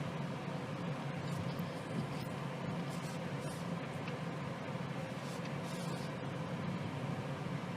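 Steady engine and road noise inside the cabin of a moving BMW 218i Gran Coupe, whose 1.5-litre three-cylinder twin-scroll turbo engine is running along with an even low hum.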